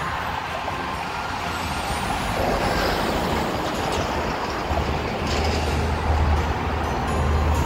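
Passing train: a steady rumble and rush of wheels on rail that grows louder about two seconds in, with a low steady hum joining near the middle.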